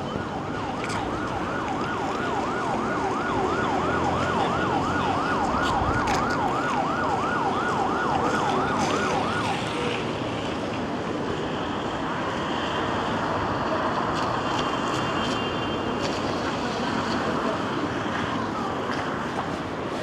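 Emergency vehicle siren in fast yelp mode, its pitch sweeping up and down several times a second, cutting off about nine and a half seconds in. Steady street noise of rain and traffic runs underneath.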